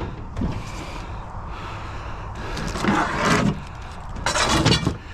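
Metal file cabinet being shifted into place, scraping and knocking in three short bursts.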